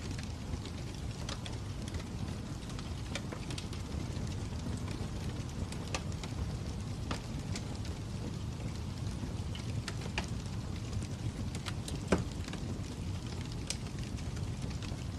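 Wood fire crackling: irregular sharp pops and snaps over a steady low rumble, with one louder pop about twelve seconds in.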